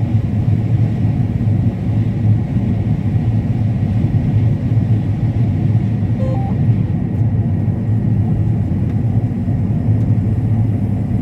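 Combine harvester running steadily while cutting corn: a constant low rumble.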